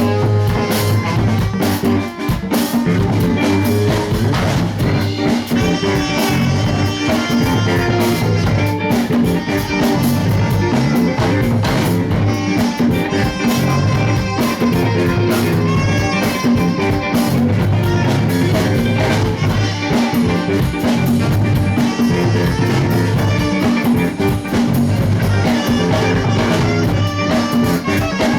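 Live band playing a song, with guitar over a drum kit keeping a steady beat.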